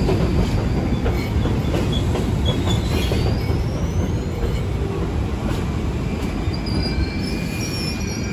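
A Metro-North Hudson Line commuter train running past on the rails: a steady wheel rumble with faint rail-joint clicks, and short high wheel squeals a couple of seconds in and again near the end.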